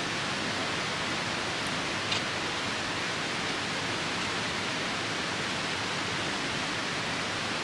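Steady, even rushing of a nearby river in the rain, with one short crackle from a campfire about two seconds in.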